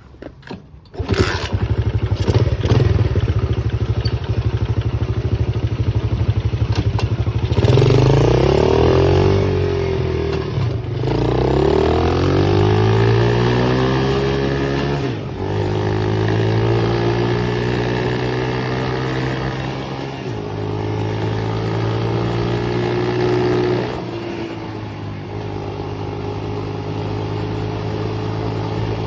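A small pit bike engine starts about a second in and runs steadily, then revs up and down repeatedly as the bike pulls away. It settles into steady running with a few sudden drops in pitch.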